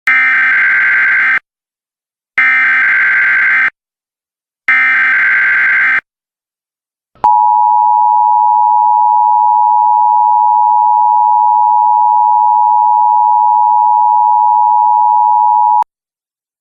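Emergency Alert System warning tones: three harsh digital data bursts of the header, each just over a second long, then the steady two-tone attention signal held for about eight and a half seconds before it cuts off.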